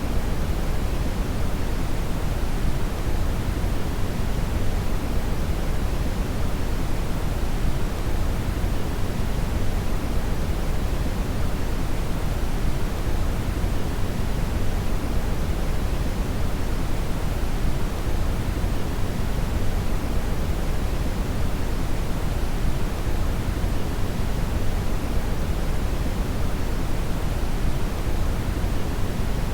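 Steady synthetic brown noise (red noise): an even, deep rushing hiss with most of its energy in the low end, unchanging throughout.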